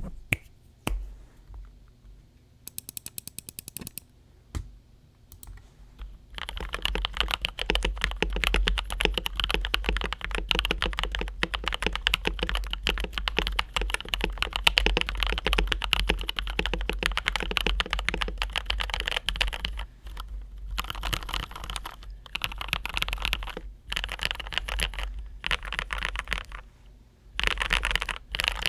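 Typing on a modded TM680 mechanical keyboard with NovelKeys Cream linear switches. A few scattered keystrokes and a quick even run of clicks come first, then continuous fast typing from about six seconds in, breaking into bursts with short pauses in the last third.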